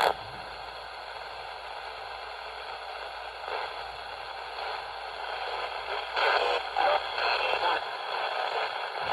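A ghost box radio sweeping the AM band: steady static hiss, broken by brief louder snatches of stations about three and a half seconds in and again near six to seven seconds in.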